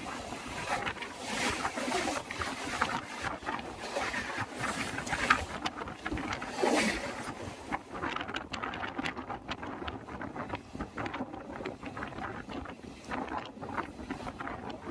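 Moving passenger train: a steady rush of running noise with many clicks and rattles as the wheels cross the rail joints.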